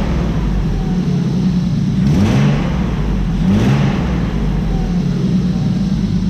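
BMW car engine idling steadily in the engine bay, revved briefly twice about two and three and a half seconds in, each rev rising and falling back to idle.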